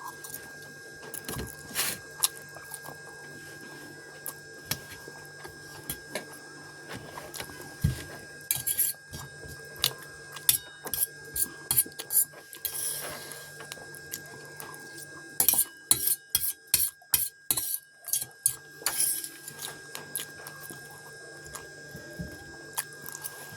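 Eating utensils clicking and scraping against a dish in irregular runs of quick, sharp clicks, densest about nine seconds in and again from about fifteen to nineteen seconds.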